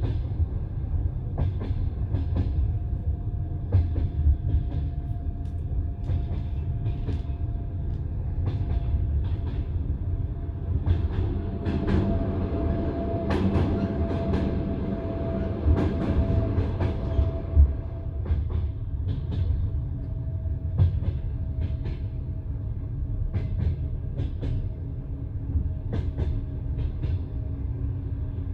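Passenger railway carriage wheels clicking over rail joints over a steady low rumble, heard from inside the carriage. A faint steady whine runs alongside from a few seconds in.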